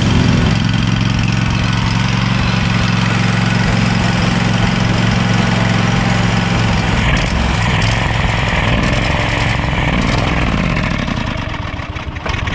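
Cub Cadet riding mower engine running at full throttle while water is poured into its open carburetor intake to steam out carbon deposits; about eight seconds in it starts to waver and slow, then dies near the end, stalled by the water.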